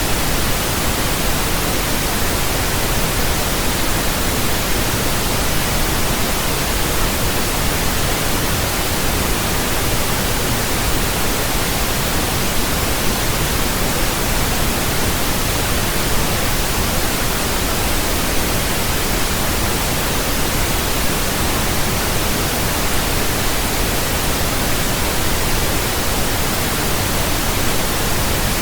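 Steady, unchanging pink noise: an even hiss spread across the whole range, deeper than white noise.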